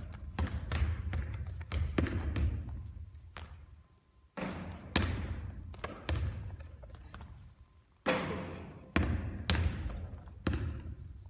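Basketball bouncing on a hard court during three-point shooting practice: three runs of sharp bounces, each dying away as the ball settles.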